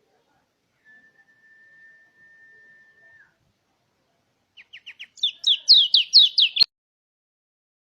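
White-eye (pleci) song: one long, level whistled note, then after a pause a few quick chirps running into a rapid string of sharp, falling notes that stops abruptly.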